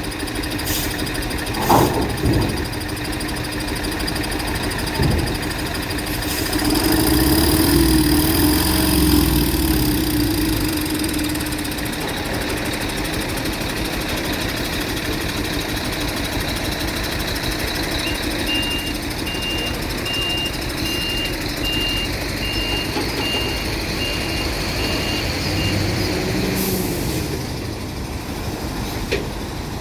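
Heavy truck engine running, swelling louder for a few seconds early on, with a few sharp knocks near the start. From midway, an electronic warning beeper sounds in short, evenly spaced beeps about twice a second for some seven seconds.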